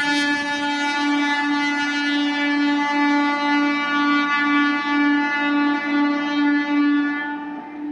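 Diesel locomotive's air horn sounding one long, steady blast that eases off just before the end.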